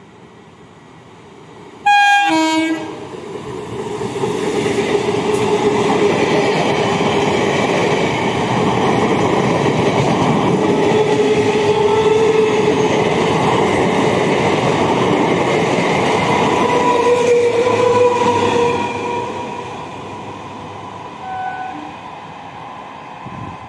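Electric suburban local train sounding a short horn blast about two seconds in as it approaches, then running past at speed with a loud rush and wheel clatter over the rail joints for about fifteen seconds, fading away as it recedes.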